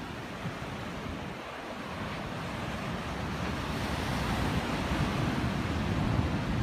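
Ocean surf breaking and washing onto the beach, a steady rush that swells louder from about two seconds in, with wind on the microphone.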